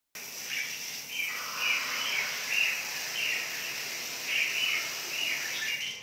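Red-whiskered bulbuls in aviary cages calling, a quick string of short chirping phrases repeated about every half second, over a steady high hiss.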